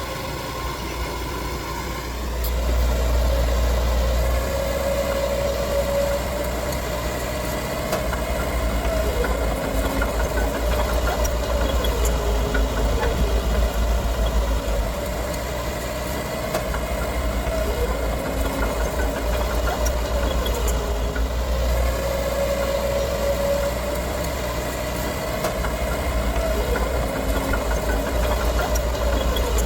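Diesel engine of heavy earthmoving machinery running under changing load, its pitch rising and falling slowly over a deep rumble. It gets louder about two seconds in.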